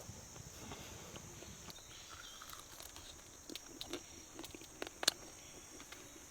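Faint campfire crackling, with scattered small clicks and one sharper snap about five seconds in, over a steady high drone of jungle insects.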